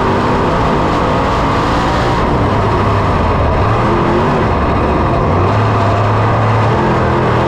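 Dirt-track Super Late Model race car V8 engine running hard at speed, a loud steady roar whose pitch wavers slightly.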